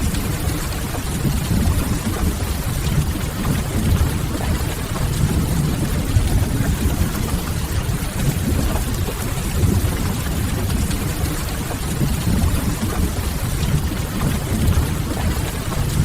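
Steady rain ambience with a deep, even rumble underneath, mixed with faint scattered crackles of a wood fire.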